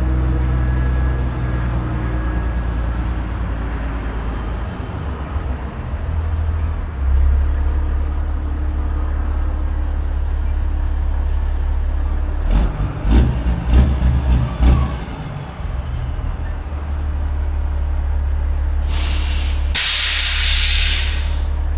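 Semi truck's diesel engine running steadily, with a run of knocks and thumps a little past the middle and a loud burst of air hiss from the air brakes near the end.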